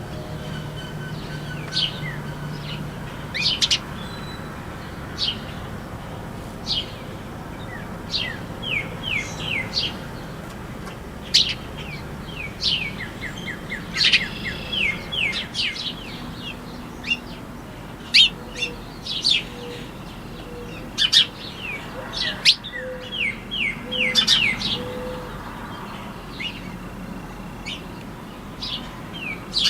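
Small birds chirping and calling, with many short, sharp chirps and a few quick runs of falling notes, some of them close and loud.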